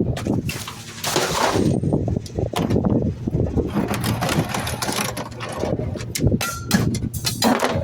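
Garbage truck engine running steadily, with repeated clattering and sharp knocks of trash and bins at the hopper that come thickest near the end.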